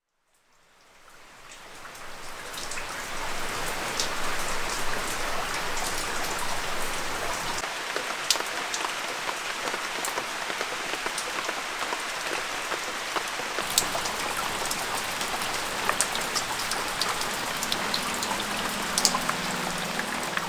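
Steady rain falling, with individual drops landing as sharp ticks, fading in over the first few seconds. Faint music comes in near the end.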